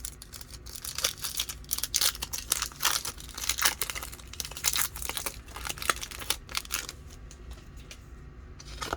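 Pokémon TCG booster pack wrapper being torn open and crinkled by hand: a run of crackling rips and crumples for about seven seconds, dying down near the end.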